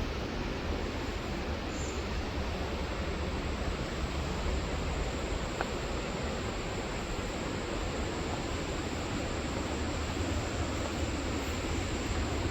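Waterfall roaring: a steady, even rushing of falling water.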